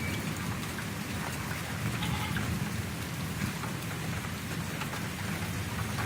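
Steady rain falling on a surface, with faint scattered drop taps and a low, steady rumble underneath.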